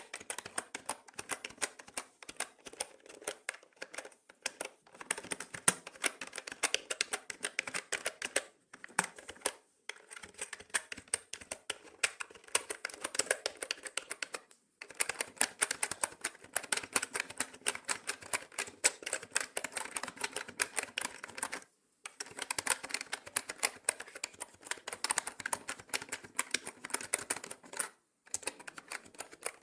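Rapid, continuous typing on a mechanical keyboard, dense key clicks in runs broken by brief pauses of a fraction of a second.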